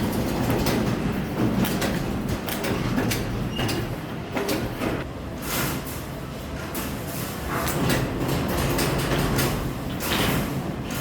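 Iron wire and metal parts rattling, clicking and scraping irregularly, over a steady low hum.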